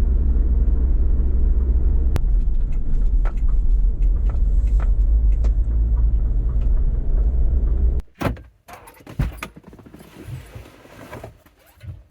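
Steady low road rumble inside a moving Bongo camper van, with a few faint ticks, cutting off suddenly about eight seconds in. Several sharp knocks and clatters follow.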